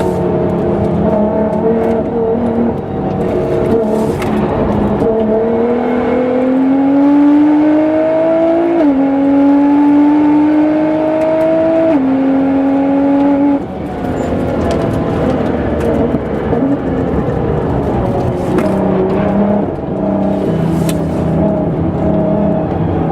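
Tuned 700 hp Nissan GT-R R35's twin-turbo V6 under hard acceleration, its pitch climbing and dropping sharply at two upshifts, then falling back as the throttle is lifted and the engine carries on at lower, varying revs.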